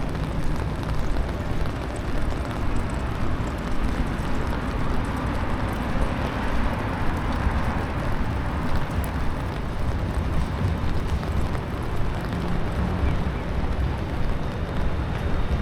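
Rainy city street ambience: a steady low rumble of traffic under an even hiss, with no single sound standing out.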